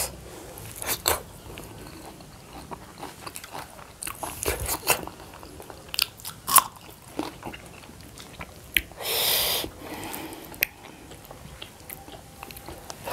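Close-up eating sounds: biting and chewing with wet mouth clicks and small crunches as two people eat dhido and curries by hand. A short breathy rush about nine seconds in.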